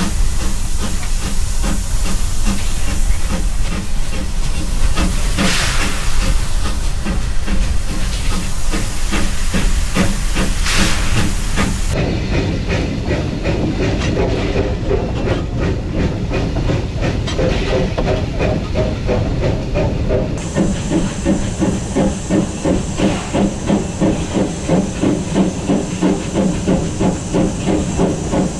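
Steam locomotive working, with a steady hiss of escaping steam and a rhythmic chuff of exhaust beats, about two to three a second in the later part.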